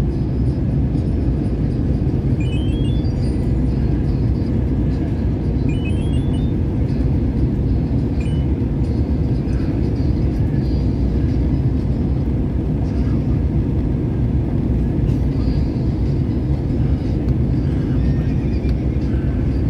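Steady low roar of an airliner cabin: engine and airflow noise. Faint short rising chirps recur every few seconds.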